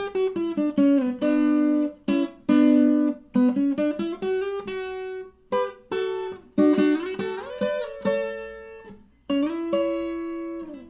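Viola caipira playing a plucked instrumental intro: single notes and double-stops ring out and fade, with a few sliding notes and short pauses between phrases.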